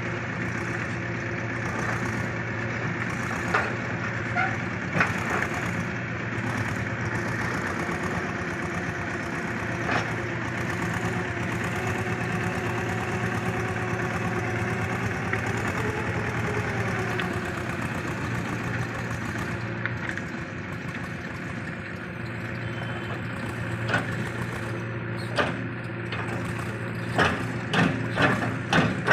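A DIY mini tractor running steadily, with a few scattered knocks and a quick run of clattering knocks near the end.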